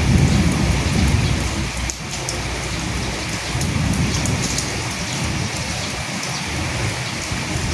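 Steady heavy rain with low rolling thunder, the rumble swelling in the first two seconds and again around halfway through.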